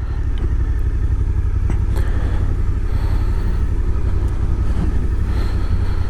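Motorcycle engine running steadily at low speed, a low, even engine note.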